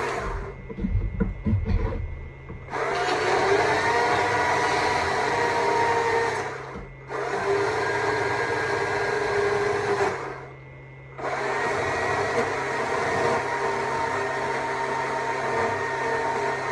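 Stihl MSA 200 C battery chainsaw's electric motor whining at full speed while carving wood. The trigger is let off three times: near the start with a few knocks, at about seven seconds, and at about ten seconds. Each time the whine dies and then rises again as the chain spins back up.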